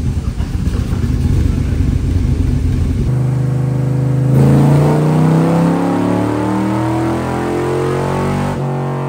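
Backdraft Cobra replica's V8 engine on a chassis dyno: a lumpy low idle, then a full-throttle dyno pull, the engine note climbing steadily in pitch from about four seconds in.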